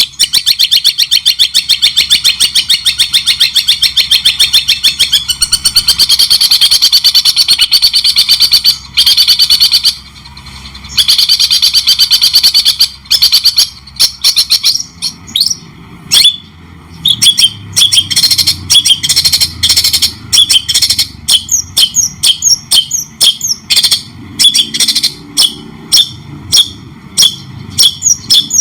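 Songbird singing: a long run of fast, rapidly repeated high chattering notes, then, from about halfway, separate sharp chirps and short gliding whistled notes.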